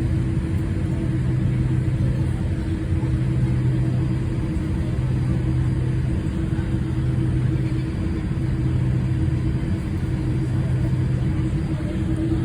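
Steady low engine rumble with a constant droning hum, unchanging in level.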